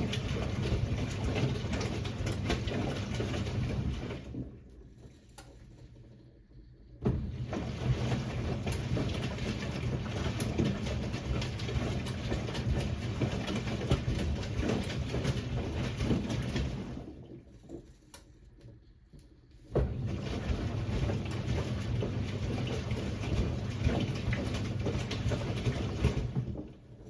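1978 Siemens WA4600 washing machine drum turning in bursts: the motor runs and the wet jeans tumble for about 4 seconds, stops for about 3 seconds, runs for about 10 seconds, pauses again, then runs once more until near the end. This stop-start rhythm is the drum's normal tumbling during washing or rinsing.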